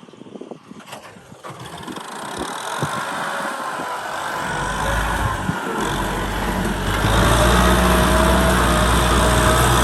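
Kubota M6040 tractor's diesel engine getting louder, settling into a steady drone with a whine over it for the last few seconds. Scattered knocks come before it in the first few seconds.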